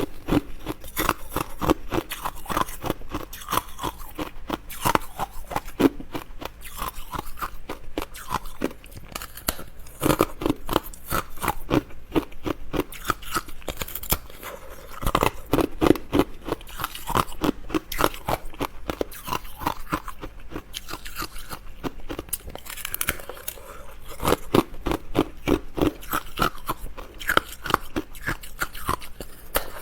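Close-miked chewing of crunchy food, with rapid crackling crunches in repeated bursts of bites.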